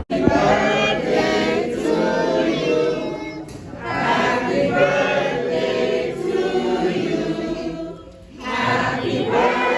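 A group of voices singing together in chorus, breaking briefly between phrases twice.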